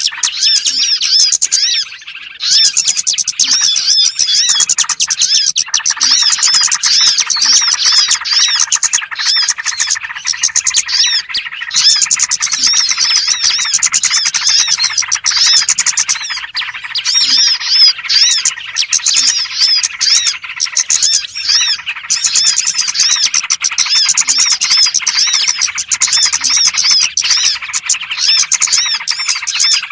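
A chorus of small songbirds chirping rapidly, their high calls overlapping almost without pause. It is a recorded lure call played to attract small birds.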